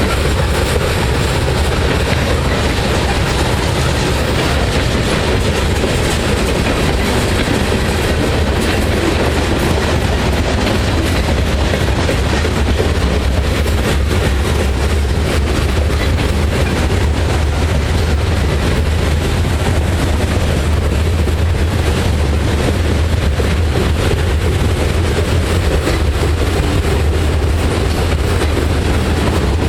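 Freight train cars rolling past, a steady loud rumble with wheels clacking over the rail joints.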